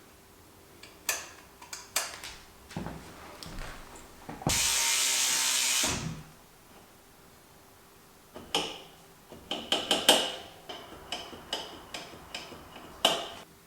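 Bicycle parts and hand tools being worked during a build: scattered metal clicks, knocks and ratchet-like ticking. A steady hiss of about a second and a half comes a third of the way through.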